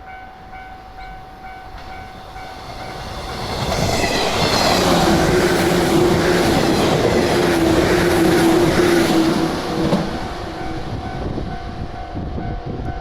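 A train passes over a Japanese level crossing while the crossing's warning bell rings in a steady repeating pattern. The train is loudest from about four to ten seconds in, then fades, leaving the bell.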